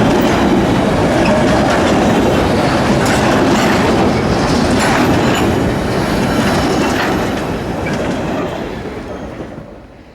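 Freight train rolling past, wheels clicking over the rail joints in a steady rumble, fading away near the end.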